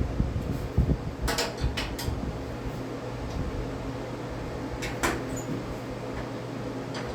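A few sharp metal clinks and clanks of a wrench working the scooter's body mounting bolts, clustered near the start and one more about five seconds in, over a steady background hum.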